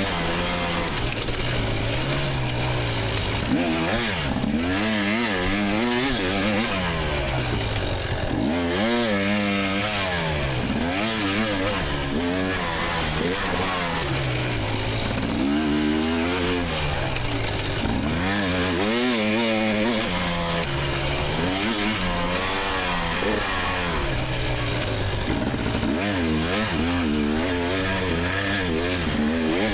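2024 GasGas EX300's two-stroke single-cylinder engine under a racing rider, revving up and falling back over and over, its pitch rising and dropping every second or few.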